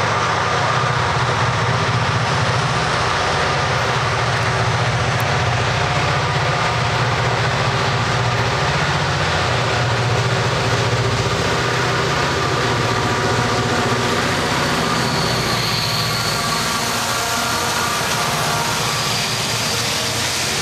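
Long Canadian Pacific autorack freight train rolling past, a steady rumble of steel wheels on rail. Near the end a CP diesel locomotive passes close.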